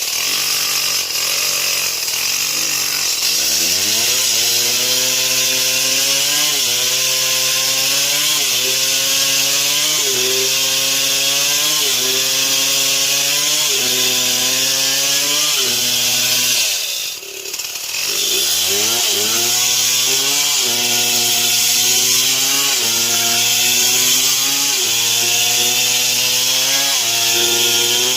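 Stihl MS 070 two-stroke chainsaw sawing through wood: the engine revs up about three seconds in, then runs at high revs with its pitch dipping and recovering about once a second as the chain cuts. It drops off briefly past the middle and revs back up, over a steady hiss of chain cutting.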